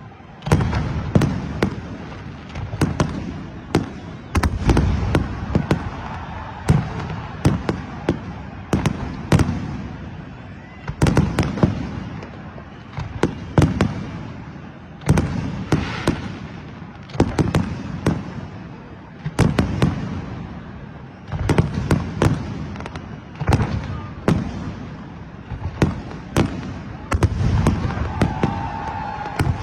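New Year fireworks going off without pause: many sharp bangs and crackles, several a second, over a low rumble that swells every couple of seconds.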